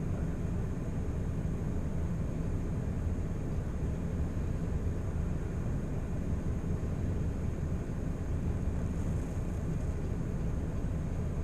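Steady low rumble of background noise inside a car's cabin, even throughout, with a faint high steady tone over it.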